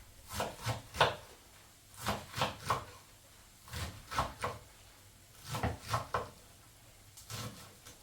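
Light knocks and clacks in quick clusters of two or three, a cluster about every one and a half to two seconds.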